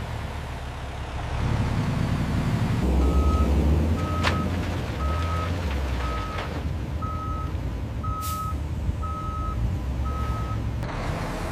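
A truck's reversing alarm beeps steadily, eight single-pitch beeps about a second apart, over a low engine rumble. A sharp click comes about a second after the beeping starts.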